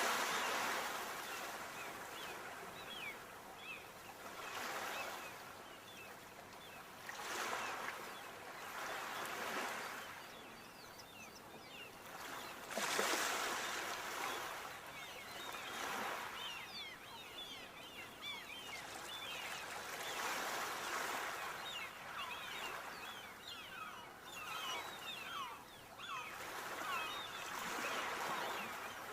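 Sea waves breaking and washing up a shore, swelling and fading every few seconds, with many faint, short, high-pitched sounds scattered between the swells.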